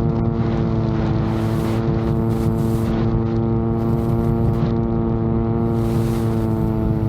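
VTOL drone's propellers and motors running with a steady, even-pitched hum, with strong wind rumbling on the microphone.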